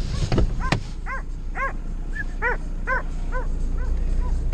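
A dog barking: a run of about seven short, fairly high barks, roughly two a second, over a steady low rumble.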